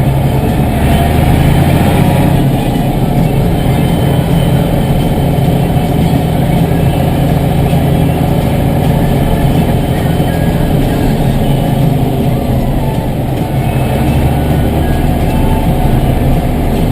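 A tractor's diesel engine running steadily at an even speed.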